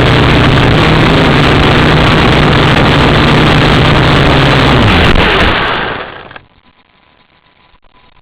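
Syma X8W quadcopter's motors and propellers running with a steady loud buzz, which fades away about six seconds in.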